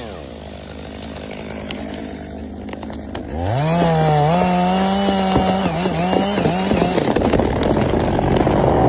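A power saw speeding up: a steady low hum, then about three seconds in the motor's pitch rises quickly and holds high and steady. Near the end it grows rougher and noisier.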